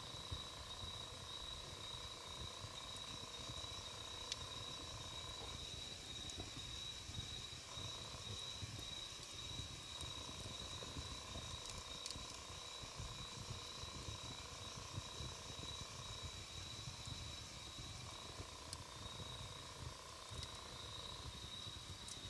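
Wood campfire burning with scattered sharp crackles and pops over a low rumble, with a steady high-pitched tone in the background.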